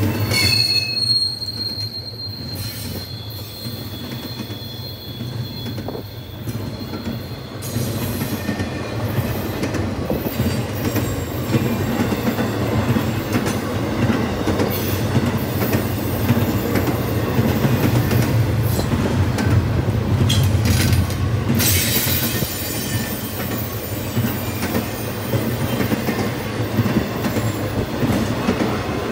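Norfolk Southern intermodal freight train rolling past, its cars giving a continuous rumble and rattle. A high, steady wheel squeal is held for several seconds near the start.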